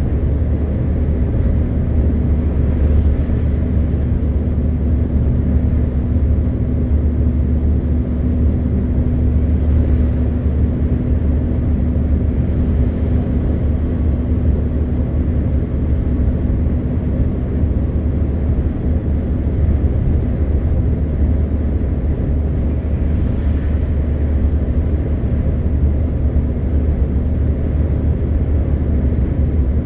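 MAN TGX 520 truck's 12.4-litre straight-six diesel and road noise while driving: a loud, steady low drone with a constant hum, without change in pace.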